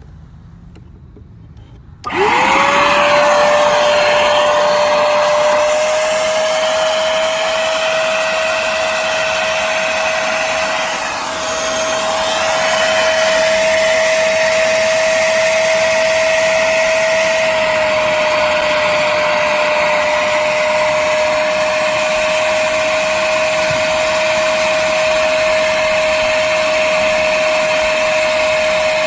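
Hoover Spotless portable carpet spot cleaner's suction motor switched on about two seconds in, spinning up with a quickly rising whine and then running steadily at a high pitch. Its tone and loudness shift slightly now and then as it works.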